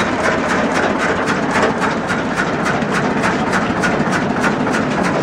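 Small tourist train running along its track: a steady engine sound under an even clatter of about three to four clicks a second.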